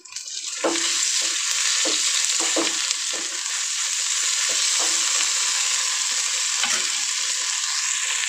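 Onion, ginger-garlic paste and curry leaves sizzling in hot oil in a metal kadhai, the sizzle swelling up in the first second and then holding steady. A metal spoon scrapes and clacks against the pan as the mixture is stirred.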